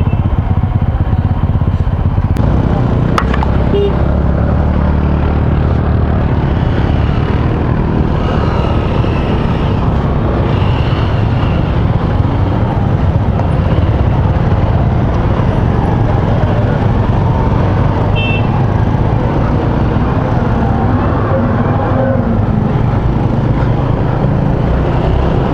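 Motorcycle engine running steadily while riding along a rough road, mixed with road and wind noise.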